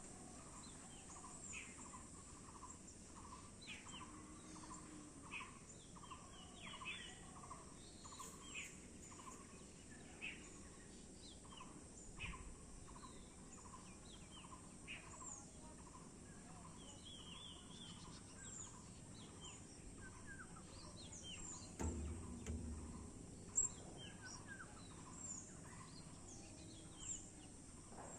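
Many small birds chirping and calling at once, with one note repeated about once or twice a second through the first half, over a faint steady high hiss. A brief low rumble and a sharp click come about 22 to 24 seconds in.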